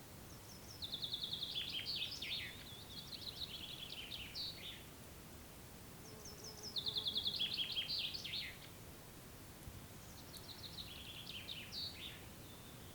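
A songbird singing the same short song three times, a few seconds apart: each phrase opens with a quick run of repeated high notes, steps down in pitch and ends in a flourish.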